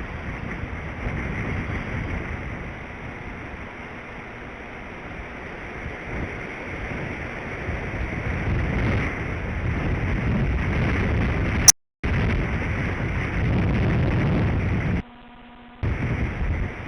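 Wind buffeting the outdoor nest-camera microphone in strong gusts, a rushing noise that swells and eases. About 12 s in the audio cuts out briefly with a sharp click, and near the end it drops to a faint hum for under a second: glitches in the stream.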